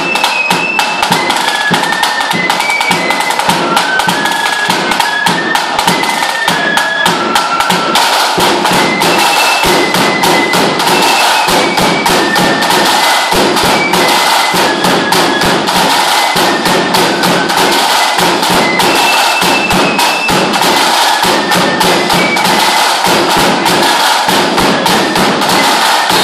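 Lambeg drum beaten with canes in a fast, unbroken rattle of strokes, with a high tune played on a fife above it.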